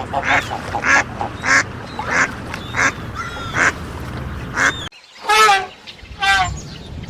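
Duck quacking in a steady series of short rasping calls, about one every half second or so. After an abrupt cut about five seconds in, a bird gives two longer calls with a wavering pitch.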